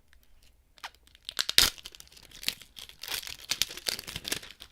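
Plastic packaging wrap being torn and crinkled by hand, a dense run of crackles starting about a second in, loudest near the middle.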